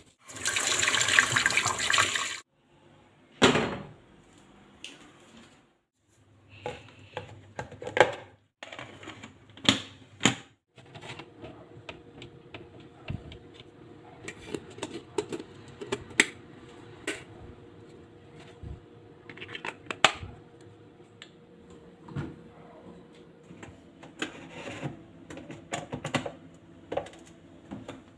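Water running hard from a kitchen tap for about two seconds, then cut off, followed by scattered clicks, knocks and clatter of kitchen items being handled.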